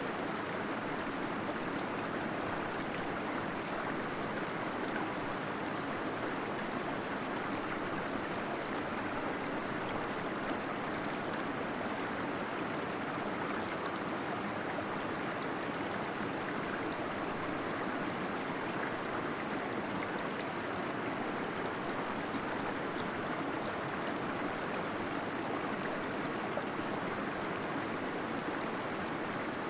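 Small waterfall in a cave, water pouring and gurgling steadily without change.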